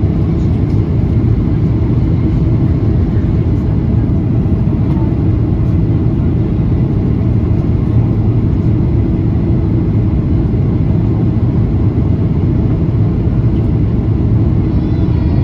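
Steady in-flight cabin noise of a Boeing 737-800, heard from a window seat: the even drone of its CFM56-7B engines and rushing airflow, heaviest in the low range.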